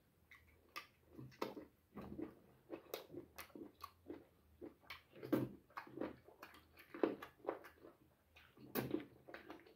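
Close-up chewing and lip-smacking from eating boiled goat-head meat with the hands: a string of irregular wet smacks and clicks, several a second.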